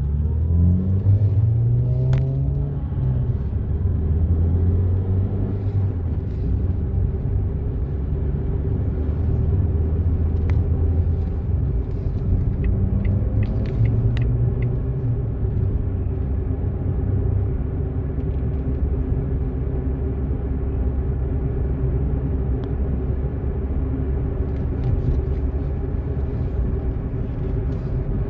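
Car driving on the road: a steady low engine and road rumble, with the engine pitch rising as it accelerates in the first few seconds and again around twelve seconds in.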